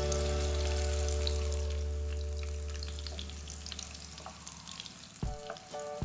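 Hot cooking oil sizzling and crackling in a wok as tofu-and-egg fritters fry. Background music plays over it: a held low chord fades away, then new notes start near the end.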